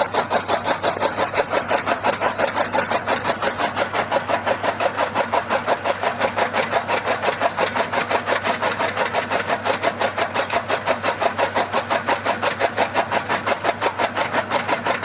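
Mini DIY tractor's engine running with a fast, even chugging, about six beats a second.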